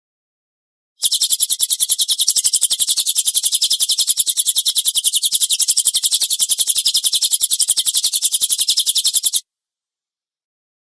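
Recorded cililin bird song played as a training track: a fast, even string of harsh, high rapid-fire notes, the 'tembakan kasar' type. It starts abruptly about a second in and cuts off sharply near the end.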